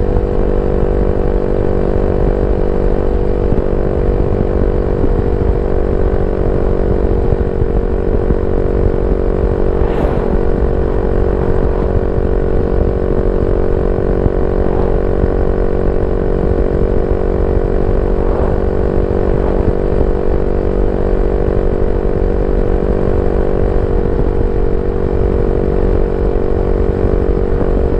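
Yamaha Y15ZR 150cc single-cylinder four-stroke motorcycle running steadily at a constant engine speed through a YYPANG SD3 aftermarket exhaust, with a short click about ten seconds in.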